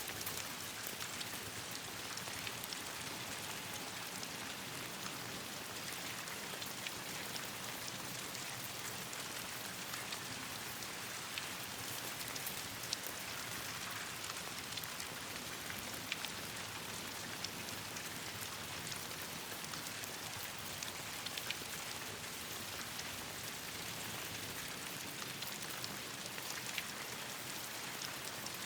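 Steady rain pattering on leaves and branches, with many small scattered ticks of drops or crackles over an even hiss.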